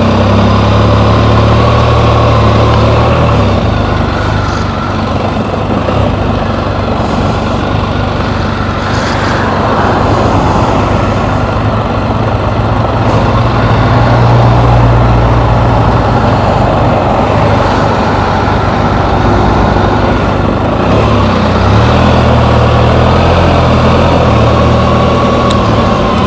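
Can-Am Spyder three-wheeled motorcycle engine running with a steady low hum and road noise, the hum easing off and coming back a couple of times.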